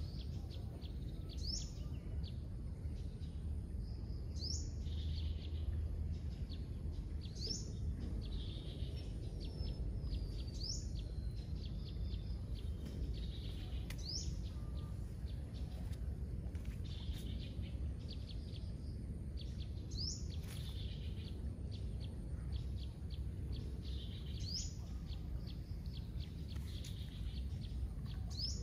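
A bird repeats a short rising call about every three seconds over a steady low rush of water from the swollen, fast-flowing stream.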